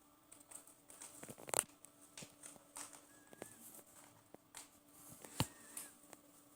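Pet parrot making scattered small clicks and taps, with two faint short whistle notes, one in the middle and one near the end.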